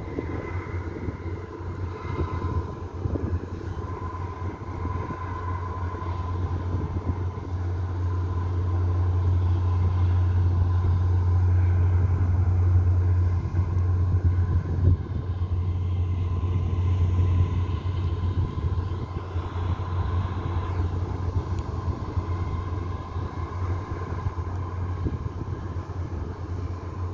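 A low, steady engine rumble that grows louder about eight seconds in and eases off again after about eighteen seconds, with a faint steady hum above it.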